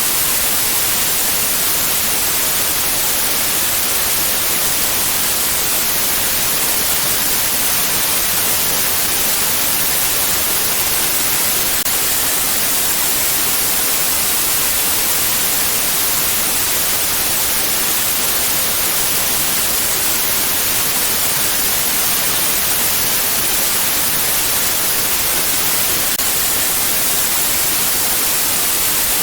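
Steady white noise used as a sleep sound: an even, unbroken hiss, brightest in the treble, with no change in level.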